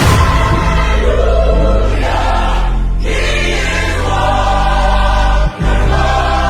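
Gospel-style choir singing over music with heavy, sustained bass, with a brief break in the sound about five and a half seconds in.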